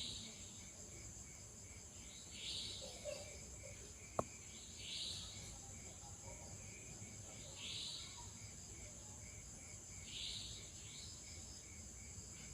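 Insects calling steadily: a continuous high buzz with a fast, even pulsing chirp beneath it. A short hissing sound repeats about every two and a half seconds, and a single sharp click comes about four seconds in.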